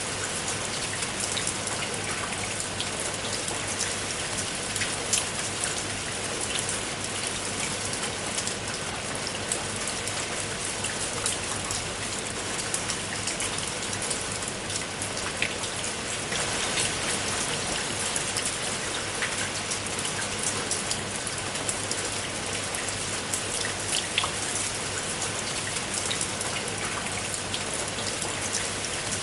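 Steady rain on a tiled roof: a continuous hiss with many single drops ticking on the tiles.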